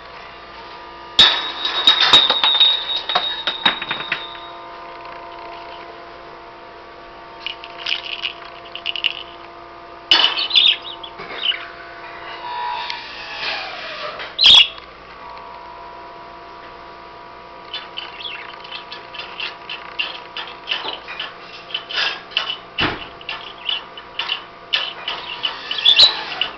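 Small metal bells being knocked and shaken by a budgerigar: sharp strikes that ring on as steady tones, a loud one about a second in, and rapid jingling in the last third, with a few budgie chirps.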